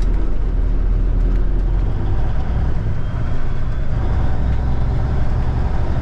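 1989 Kenworth K100E cabover truck's diesel engine running steadily as the truck is driven slowly to park.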